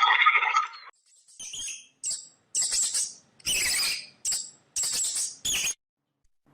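A string of about eight short, high-pitched animal calls, each under half a second, with short gaps between them.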